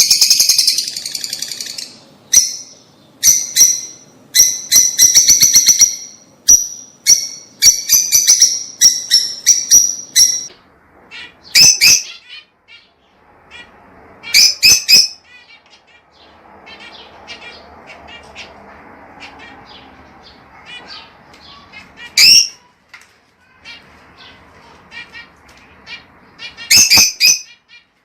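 Lovebirds chirping: quick runs of high-pitched chirps for the first ten seconds or so, then single sharp calls every few seconds with fainter twittering between.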